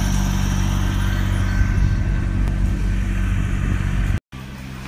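Engine running steadily with a low, even hum. It cuts off abruptly about four seconds in, and a quieter steady hum follows.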